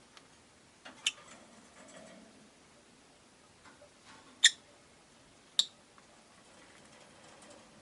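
Rosy-faced lovebirds giving three short, sharp, high-pitched chirps: one about a second in, a louder one at about four and a half seconds, and one a second later, with faint small ticks in between.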